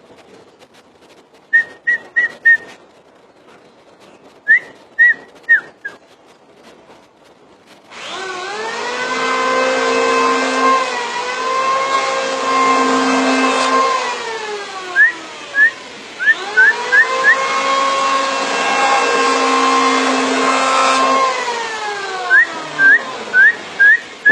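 A green leafbird (cucak ijo) gives groups of short, sharp whistled notes. About a third of the way in, a much louder engine starts revving up and down in long sweeps, and the bird's whistles cut through it in further bursts.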